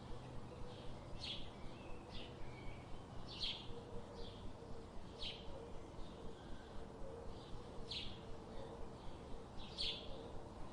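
Birds chirping: short, sharp, high chirps repeating about once or twice a second, some louder than others, over a faint steady background hiss.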